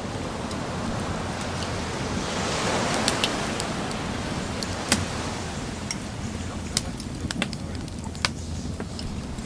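Sea waves washing ashore, one swelling and fading about two to four seconds in, with a wood fire crackling in scattered sharp pops.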